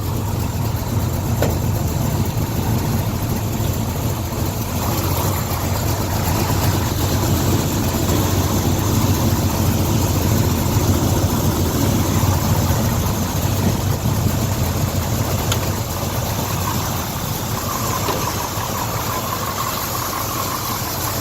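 1966 Chevy Nova engine idling steadily through its custom exhaust, a little louder through the middle stretch.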